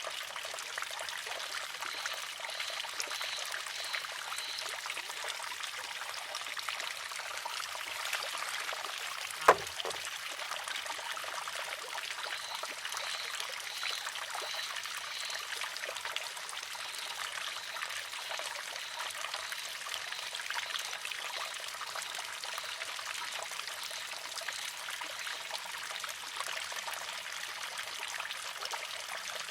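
Water trickling steadily from a wooden shishi-odoshi (sozu) deer-scarer, with a single sharp clack about nine and a half seconds in as the water-filled arm tips over and strikes its rock.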